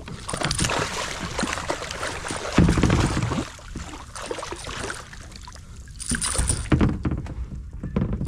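Irregular knocks, rustles and splashing on and around a kayak as a hooked fish is fought at the boat.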